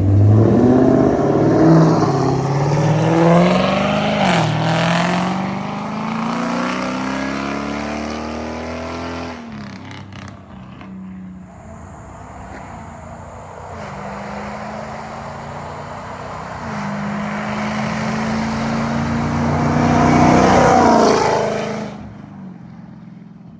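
Dodge Charger Scat Pack's 6.4-litre 392 HEMI V8, with a cat delete and an MBRP Armor Lite cat-back exhaust, accelerating hard through the gears: the engine note climbs, drops at an upshift and climbs again. About ten seconds in it cuts off, and a second, quieter run climbs through another shift before stopping near the end.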